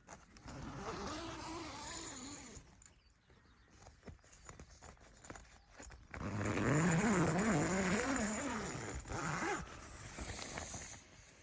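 A flying insect buzzing close by, its pitch wavering up and down as it moves. It passes twice, the second pass louder, about six seconds in.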